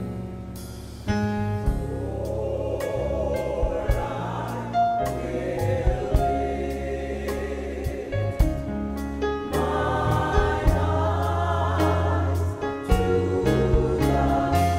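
Gospel choir singing with instrumental accompaniment: sustained bass notes under the voices and sharp drum hits throughout.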